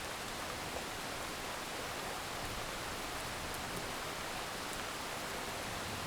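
Steady heavy rain, an even hiss with faint scattered drop ticks.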